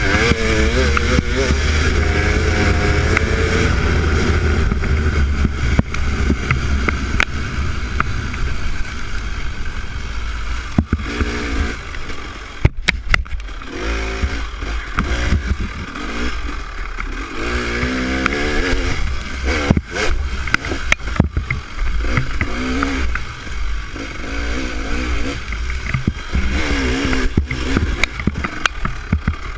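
Dirt bike engine on a slow trail ride, its pitch rising and falling as the throttle is worked, with scattered sharp knocks along the way.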